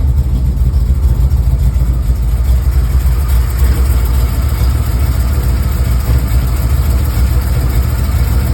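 1955 Chevrolet Cameo pickup's engine idling steadily, shortly after a cold start, having sat unstarted for three to four weeks.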